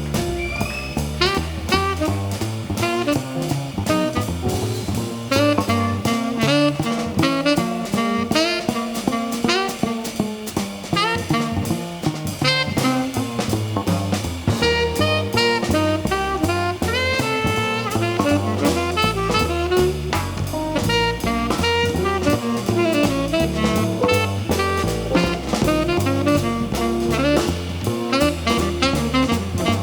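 A jazz combo playing live: a lead melody line with bending, sliding notes over a drum kit with busy cymbals and a bass line moving note by note on the beat.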